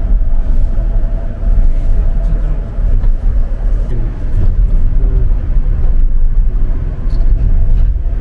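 Low, steady rumble of a tourist monorail car running along its track, heard from inside the cabin, with a faint steady hum above it.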